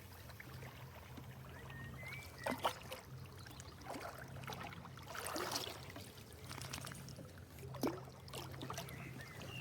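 Water splashing and trickling around a canoe, with a few louder sloshes a couple of seconds apart.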